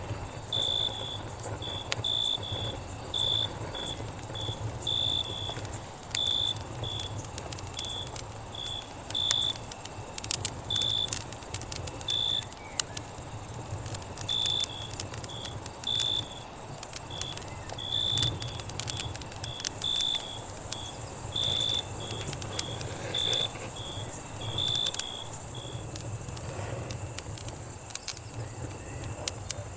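Night ambience of a crackling campfire with scattered sharp pops, under a steady high drone of cicadas. A cricket chirps steadily at about two chirps a second and stops about four seconds before the end, over a low distant rumble.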